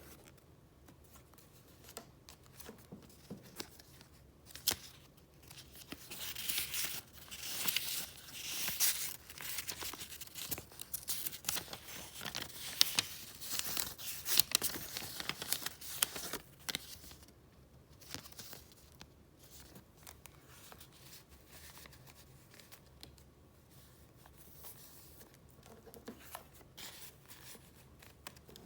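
Paper items being handled and leafed through: rustling and crinkling with many small clicks and snaps, busiest and loudest through the middle, lighter and sparser near the start and end.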